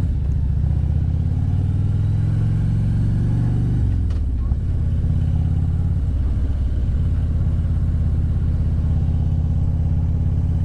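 Motorcycle engine under way, rising in pitch as it accelerates, then dropping sharply about four seconds in as the throttle comes off or a gear changes, and running steadily after that.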